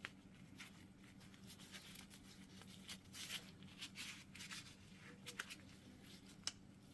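Faint scraping and small clicks as a plastic wheel speed sensor is worked into the hub bearing, over a steady low hum.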